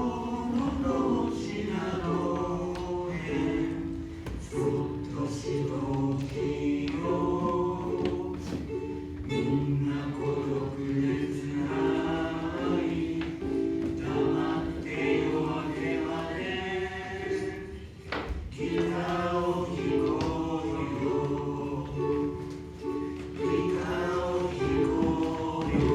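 A group of voices singing a song together, moving from held note to held note.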